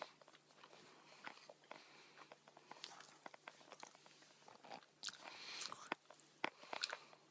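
Faint chewing and biting on a mouthful of pizza, with small crunches and mouth clicks, a little louder about five seconds in.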